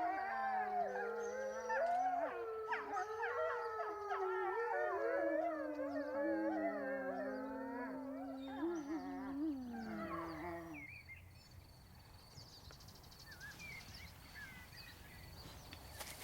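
A pack of wolves howling in chorus, several long overlapping howls rising and falling in pitch. The chorus dies away about two-thirds of the way through, leaving a faint outdoor background with a few short high chirps.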